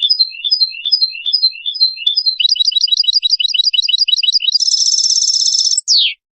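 Male goldfinch × canary hybrid (mule) singing: a short phrase repeated about five times, then a fast trill of about eight notes a second, a buzzy rolled trill, and a final falling note before it cuts off suddenly.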